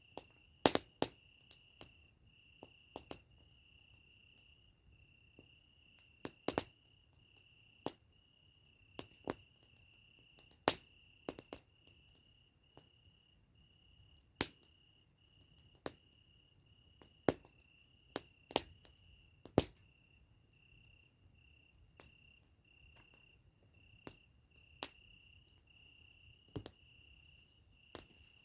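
Campfire crackling, with sharp irregular pops every second or so, over crickets chirping steadily.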